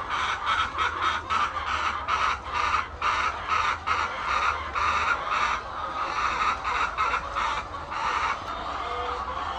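A flock of laying hens clucking, many short calls a second overlapping without a break, over a steady low hum.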